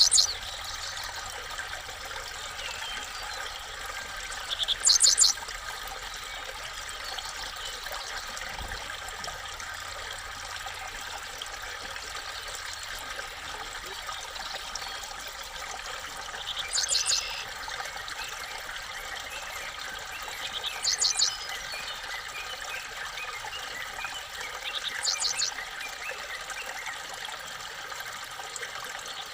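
A small bird gives a short, high call, a quick cluster of notes, six times a few seconds apart, with a longer gap in the middle. Under it runs a steady hiss like trickling water.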